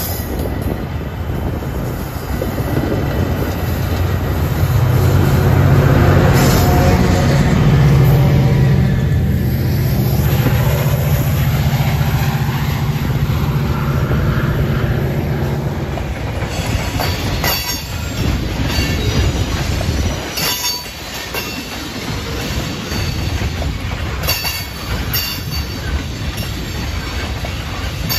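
Trains running past: first a Metra commuter train, its diesel locomotive's low engine drone swelling to a peak about a third of the way in and then fading. From about 17 seconds in, a freight train of tank cars rolls by close up, its wheels clicking over the rail joints in an uneven clickety-clack.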